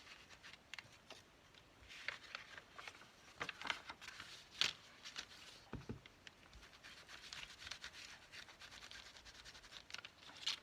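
Faint scratchy rubbing and dabbing as ink is worked through a plastic stencil onto craft paper, with scattered short taps, busiest in the middle and with one sharper tap near the middle.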